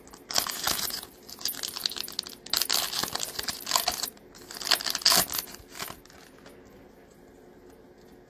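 Trading-card pack wrapper being torn open and crinkled in several rustling bursts that stop about six seconds in.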